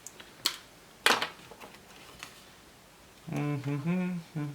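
A few sharp clicks and ticks as a small laptop screw is worked out with a screwdriver and set down, the loudest two about half a second and a second in. Near the end a man's voice mutters briefly.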